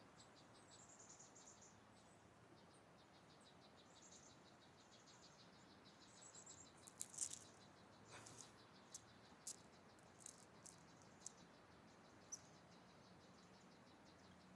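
A squirrel chattering faintly: runs of rapid, high-pitched ticks and short trills, broken by a few sharp clicks in the second half.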